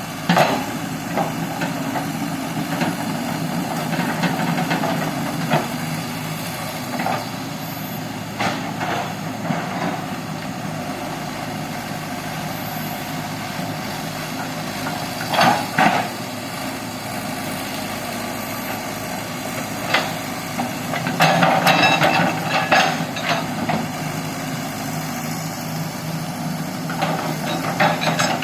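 Hydraulic excavator's diesel engine running steadily, with occasional sharp clanks and knocks, most of them together about three quarters of the way through.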